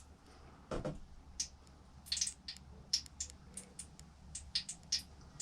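Light, irregular clicks and ticks, with one louder knock about a second in, over a faint low hum.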